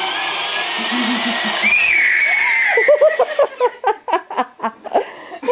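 A toy ride-on motorcycle's push-button sound effect: a loud, hissing electronic noise with a whistle-like tone that wavers up near the middle, lasting about three seconds. Giggling and laughter in short bursts follow.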